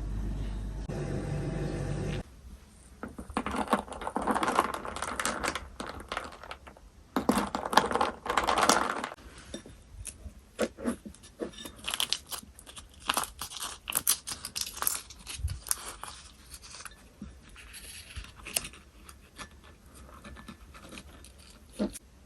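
A steady low hum cuts off about two seconds in. Then come irregular clinks, scrapes and rustles of utensils being handled, in two busier stretches early on that thin out to scattered clicks.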